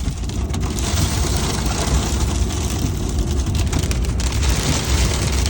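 Heavy rain and wind storm hitting a car, heard from inside the cabin: a steady hiss of rain over a low, gusting rumble of wind.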